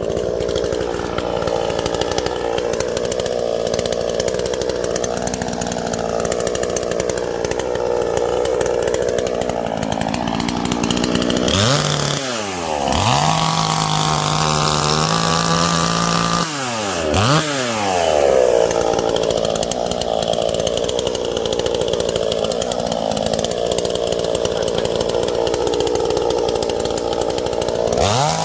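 Chainsaw with a new chain and bar cutting dead tree wood, its engine at high revs with the pitch wavering under load. About twelve seconds in the revs drop to a steady idle for a few seconds, then it revs up and cuts again before dropping back to idle at the very end.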